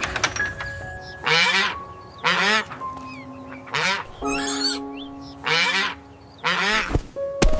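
A duck quacking, about six short, harsh quacks spaced roughly a second apart, over background music.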